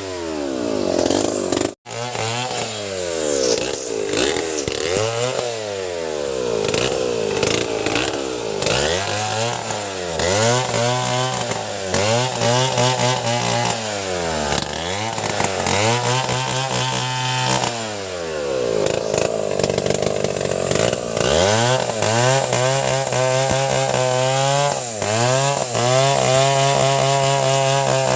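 Two-stroke chainsaw engine revving up and down over and over, with the pitch climbing and dropping about every two seconds, then held at high speed near the end. A brief break about two seconds in.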